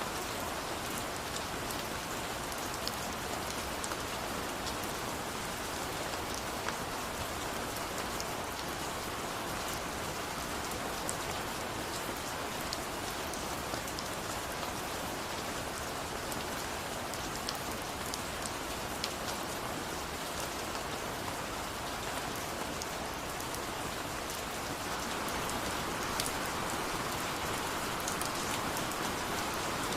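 Steady heavy rain, dense hiss with many individual drops pattering on a surface; the rain swells slightly in the last few seconds.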